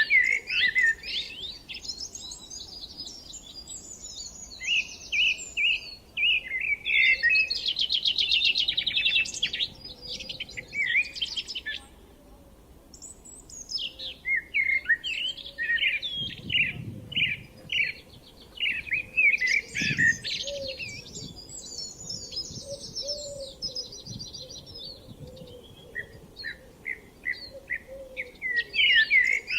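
Songbirds singing in a spring dawn-chorus style, several fast, twittering phrases of a few seconds each with short pauses between them.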